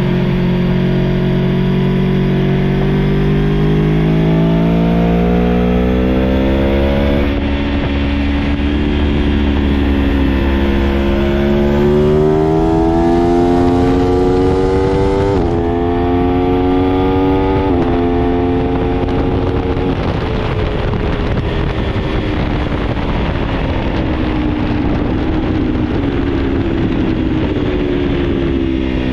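Aprilia Tuono V4 1100 Factory engine pulling hard, its pitch climbing through the revs with two sharp drops at upshifts about halfway through, then falling away as the bike slows and rising again near the end. A steady rush of wind noise runs underneath.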